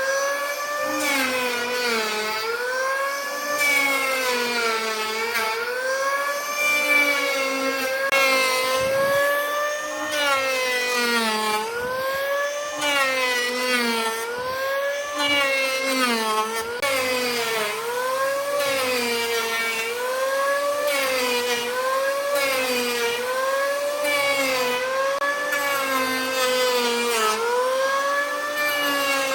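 An electric power tool's motor whining as it is worked against wood, its pitch dipping under load and rising again about every second and a half.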